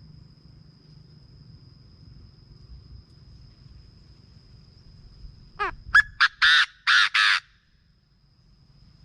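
Chinese francolin calling: a loud series of about six harsh, rapid notes, the first sliding down, lasting under two seconds, about five and a half seconds in. A steady thin high insect drone runs underneath.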